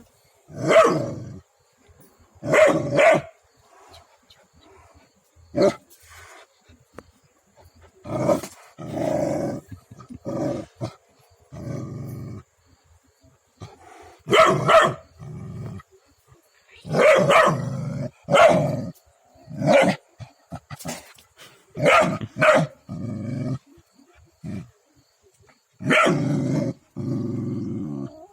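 A dog barking in separate bursts, some short and sharp, others drawn out into growls.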